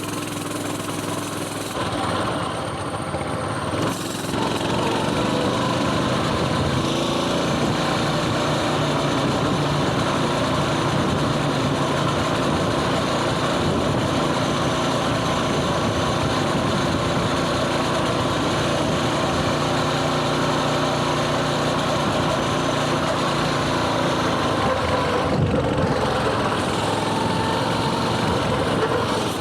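Coleman mini bike's small engine running under way. It picks up about four seconds in and holds a steady cruise, with a brief dip and change of pitch near the end.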